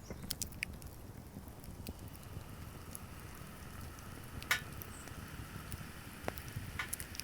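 Wood fire crackling, with scattered sharp pops over a faint steady hiss.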